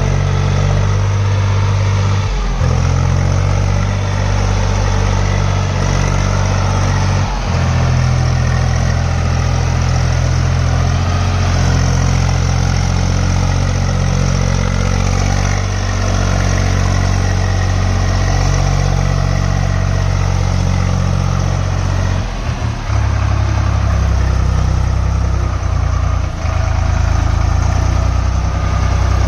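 Swaraj 735 tractor's three-cylinder diesel engine running steadily under the load of a fully loaded trolley, its note breaking and changing briefly a few times.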